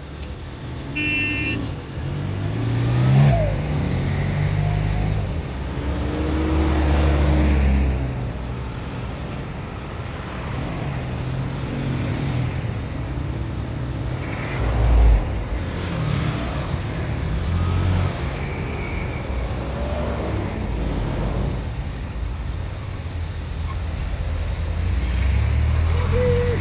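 A convoy of off-road 4x4 vehicles driving past one after another at low speed, their engines running and revving, each swelling louder as it passes, the loudest about three seconds in and again halfway through. A brief high beep sounds about a second in.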